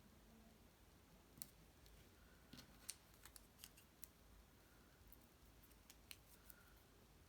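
Near silence broken by about a dozen faint, sharp clicks and light taps, mostly in a cluster a few seconds in, from small cardstock pieces being handled and pressed into place.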